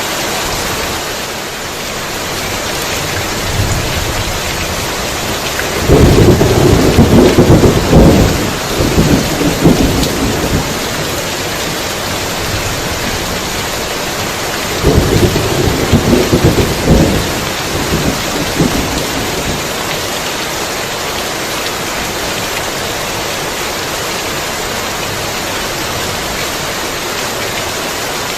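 Heavy, steady rain, with two long rolls of thunder rumbling through it, the first about a fifth of the way in and the second just past halfway, each lasting a few seconds.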